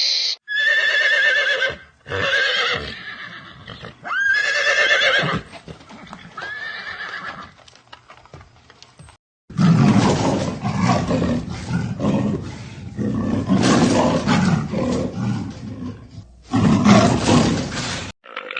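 A horse whinnying four times, each call a high wavering neigh. After a break about halfway through comes a longer, rough, noisy animal sound with a deep rumble, which may be another animal.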